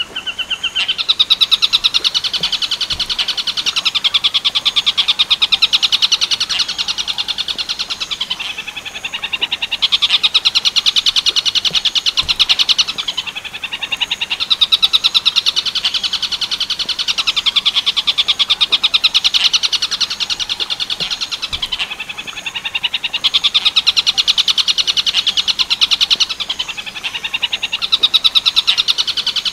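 Tengkek buto calling: loud, fast rattling trills, each phrase lasting a few seconds, repeated with short breaks of about a second between them.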